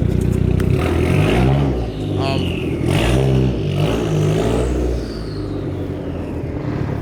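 Car engine running with several revs, the engine note climbing and falling back each time, over a steady low exhaust rumble.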